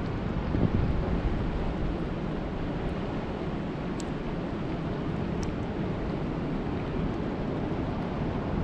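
Steady rain falling, an even rushing hiss heavy in the low end, with a couple of faint drop-like ticks.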